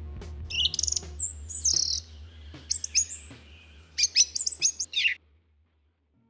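Birds chirping in quick, high bursts of calls over a low steady hum, stopping suddenly about five seconds in.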